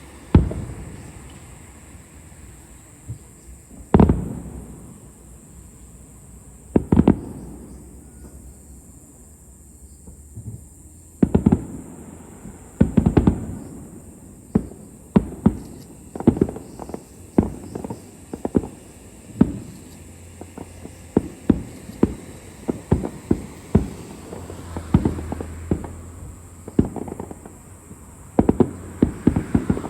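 Aerial fireworks shells bursting: a few single booms a few seconds apart, then from about eleven seconds in a rapid string of reports several a second.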